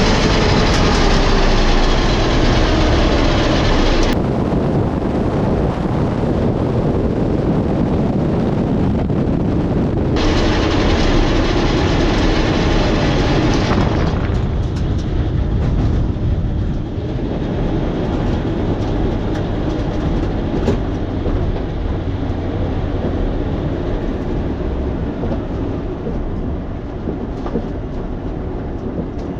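Drag race car engine and ride noise heard from inside the car: a loud, steady rumble and rattle. It changes abruptly about 4 and 10 seconds in, and drops somewhat in level after about 14 seconds.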